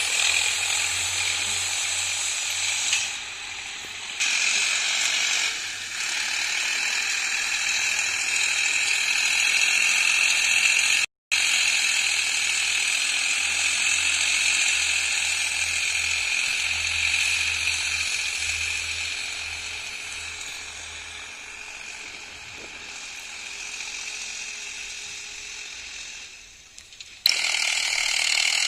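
Solis 5015 50 HP tractor working a field with a harrow: a steady mechanical rattle and clatter. The sound cuts out briefly about eleven seconds in and dips a little before the end.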